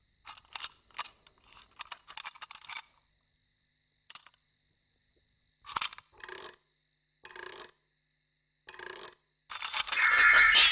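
Small metallic clicks and clinks in quick, irregular groups from the worn-out clockwork of a toy mechanical songbird being taken apart. A louder, longer clatter follows near the end.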